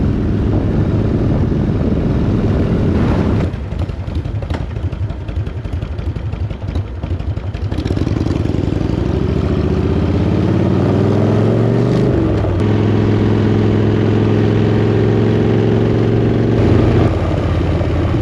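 Motorcycle engine under way: a steady note, then a quieter stretch, then the revs climb through a gear until a sudden drop in pitch at a gear change about two-thirds of the way in, after which it runs at a steady cruise.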